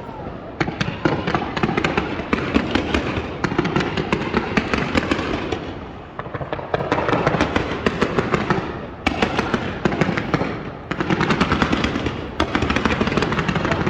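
A fireworks barrage going off as dense, rapid strings of sharp reports. It comes in about five volleys of a few seconds each, with brief lulls between them.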